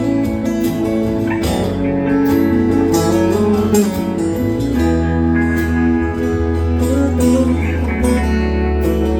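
Live band playing an instrumental stretch of the song without vocals, led by guitar over a steady bass line.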